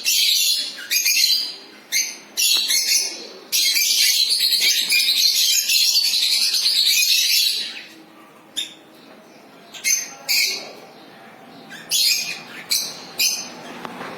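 Lovebirds chirping and squawking in shrill, sharp calls, with a few seconds of dense, unbroken chatter in the middle, then fewer separate calls.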